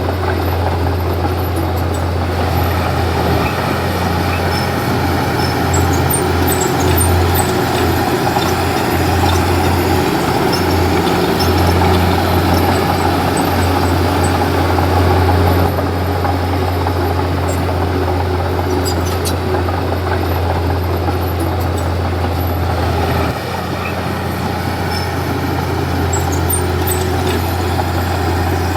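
Komatsu D31P bulldozer's diesel engine running steadily with a deep, even hum, easing slightly in level about three-quarters of the way through.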